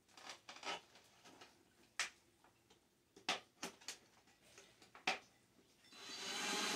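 Scattered sharp clicks and taps of thin tin-can sheet metal being handled and fitted, about a dozen in all. Near the end a power drill starts running steadily, as for driving screws into the tin collar.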